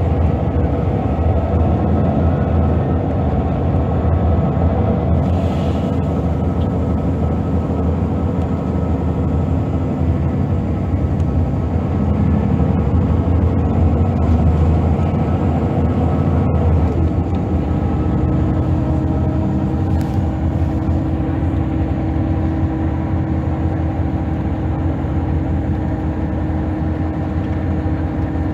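Scania DC9 five-cylinder diesel of a Scania L94UB city bus running as the bus drives, with a steady low engine note. About two-thirds of the way through, the note changes and a steady whine comes in.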